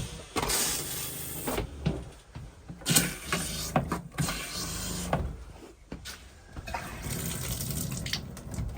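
Water running from a tap into a sink, starting and stopping in several uneven spurts.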